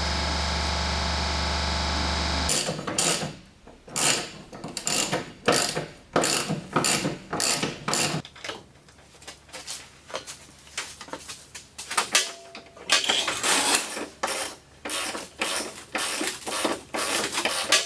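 A steady hum that stops about two and a half seconds in, then a hand ratchet being worked in repeated strokes, about two a second and quicker near the end, as a suspension bolt is done up.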